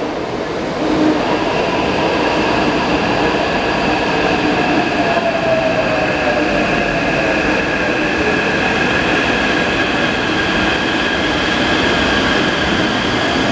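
Taipei Metro C381 train running at speed: steady rail and running noise with several steady high-pitched whining tones, and a fainter lower tone sliding slowly down partway through.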